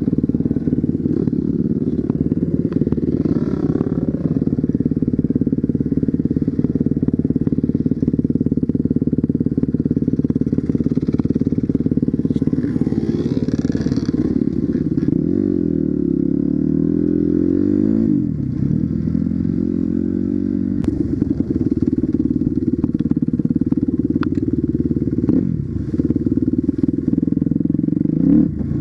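Enduro dirt bike engine running steadily, its pitch swinging up and down a couple of times past the middle as the throttle is opened and closed.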